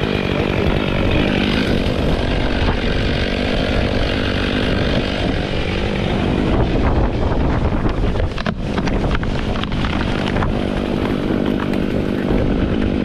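Stihl chainsaw running steadily at high revs, with a short dip about eight seconds in. Strong wind rumbles on the microphone underneath.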